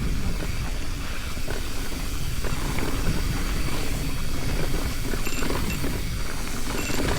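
Mountain bike rolling over a dirt and rock trail, with a steady low rumble of wind on the microphone and scattered clicks and rattles from the bike over the rough ground.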